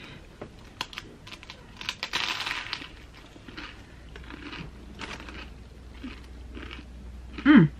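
A crunchy first bite of a tuna sub with potato chips tucked inside about two seconds in, then mouth-open chewing about twice a second, with rustling of the paper sandwich wrapper. A short, loud hummed 'mmm' of approval near the end.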